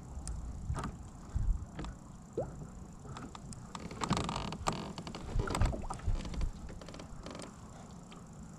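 Kayak on the water with scattered knocks and clicks of gear against the hull and a louder stretch of handling noise about four to five seconds in.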